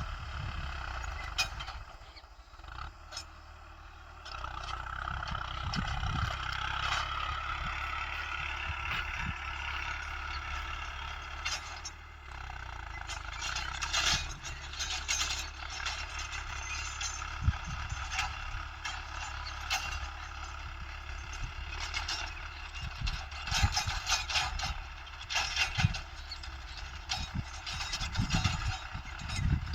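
Mahindra Arjun 555 DI tractor's diesel engine running steadily, with many short rattles and knocks from the implement and frame.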